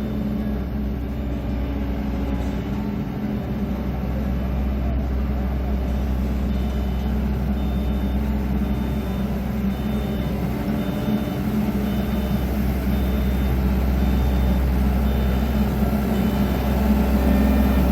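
Heavy construction machine's diesel engine running steadily, with a reversing alarm beeping at a regular pace from about a third of the way in.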